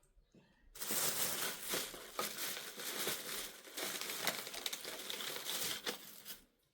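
Crinkling, rustling noise full of small crackles, as of something crumpled or handled, starting abruptly about a second in and stopping near the end.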